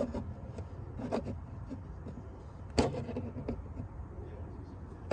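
Inside the cabin of an old Mazda MX-5 Miata: a steady low road rumble with occasional sharp rattles and knocks from the car's interior, the loudest near the end. The owner puts the rattling down to the car's age and the road surface.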